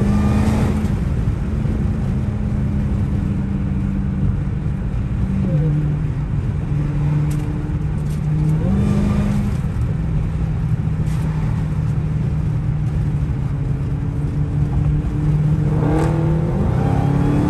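Supercharged 6.2-litre HEMI V8 of a 2022 Dodge Hellcat Redeye running at highway speed over a dense low rumble. Its pitch steps down about five seconds in, jumps up briefly and drops back near nine seconds, and climbs again near the end as it accelerates.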